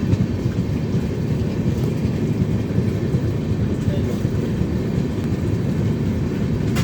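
Passenger train in motion, a steady low rumble with a sharp click near the end.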